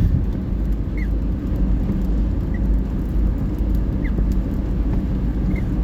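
Steady low rumble of a car driving on a highway, heard from inside the cabin, with a faint short squeak repeating about every second and a half.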